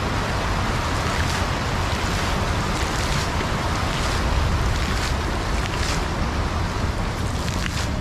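Falling water from a park water feature, a steady rushing splash.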